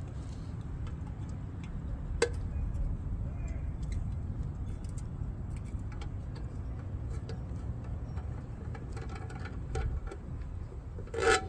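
Scattered small metal clicks and taps from hand tools being worked at a wheel, with one sharp click about two seconds in and a louder short clatter near the end, over a steady low rumble.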